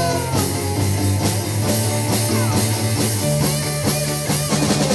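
Live rock band playing an instrumental passage: drum kit, bass and guitar, with no singing.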